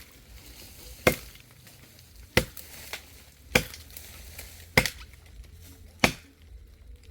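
Dry wood being chopped by hand: five sharp blows, about one and a quarter seconds apart, into a dry log that is still hard inside.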